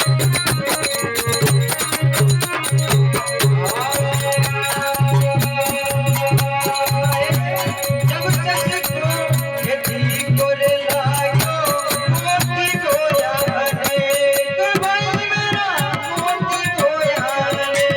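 Instrumental passage of Rajasthani devotional bhajan music: a steady hand-drum beat under quick rattling percussion, with a long held drone note and a gliding melody.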